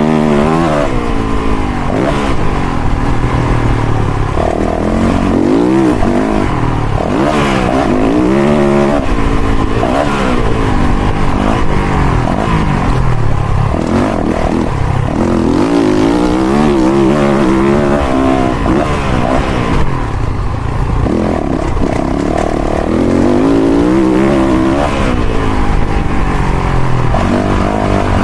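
Dirt bike engine being ridden hard, revving up and down over and over, its pitch climbing and dropping with each throttle change.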